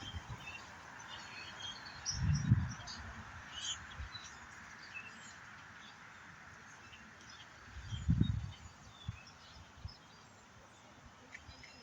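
Many small birds chirping in short, scattered high calls over a steady background hiss. Two low dull thumps, the loudest sounds, come about two and a half and eight seconds in.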